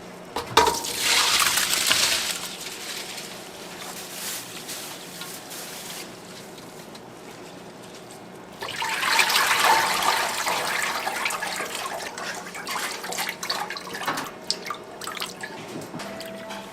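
Running water splashing in two spells, the first about half a second in and the second near the middle, with small knocks and clicks throughout.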